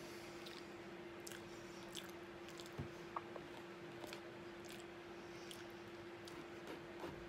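A person eating: chewing a mouthful taken from a fork, with soft mouth clicks and a few light taps, over a steady low hum.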